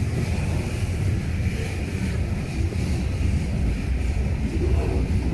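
Ferromex freight train of covered hopper cars rolling past, a steady low rumble of wheels on the rails.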